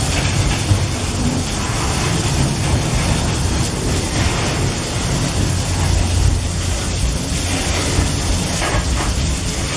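Loaded freight wagons of a long train rolling past close by, a steady low rumble of wheels on rails, with heavy rain hissing down at the same time.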